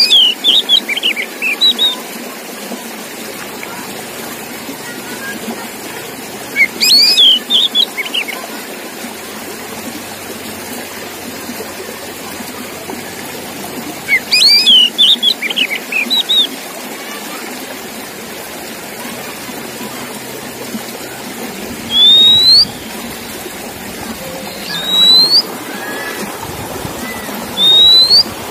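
Oriental magpie-robin song: three short phrases of quick, sharp whistled notes about seven seconds apart, then three single rising whistles about three seconds apart, over a steady background hiss.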